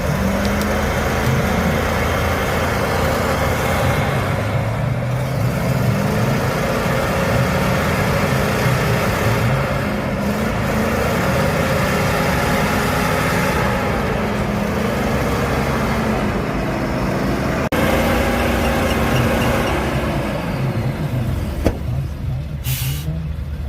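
The engine of a 6×6 trial truck working through an off-road section, revving up and down repeatedly under load. A short hiss comes near the end.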